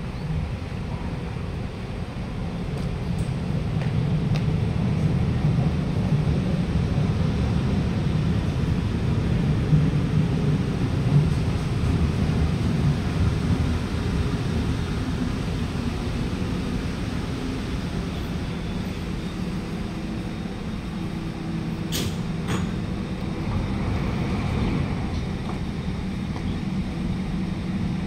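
Alstom Movia R151 metro train rolling slowly into the platform at about 10 km/h under a temporary speed restriction: a steady low rumble that builds about four seconds in and holds as it draws alongside. A couple of sharp clicks come near the end as it comes to a stop.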